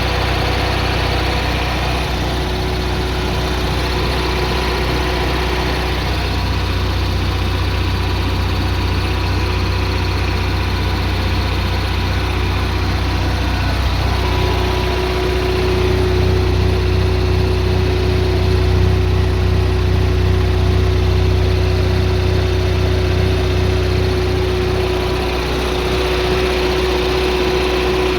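Kohler Confident 5 generator running steadily with a low hum and a steady tone over it; it grows somewhat louder about halfway through for roughly ten seconds, then settles back.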